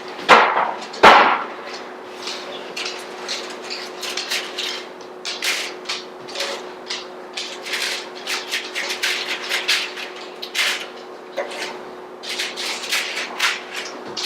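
Two loud knocks about a third of a second and a second in, then a long run of short scrapes and clicks from a spatula working a metal baking pan lined with parchment paper, as the baked beet burger patties are turned over. A steady low hum runs underneath.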